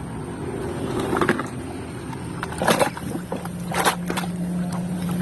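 Water running and splashing as a muddy toy car is washed, with a few short sharper splashes or knocks and a low steady hum coming in about halfway through.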